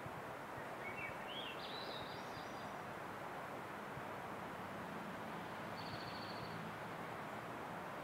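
Steady outdoor background noise with a small bird singing: a short phrase of rising high notes about a second in, and a brief high trill about six seconds in.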